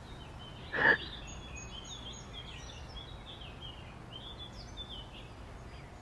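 Small birds chirping and twittering over a steady outdoor background hiss, with one short, louder sound about a second in.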